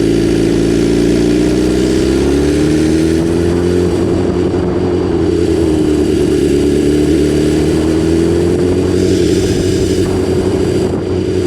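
BMW S1000RR inline-four engine running on the move, its pitch rising and falling gently as the throttle opens and eases through the bends.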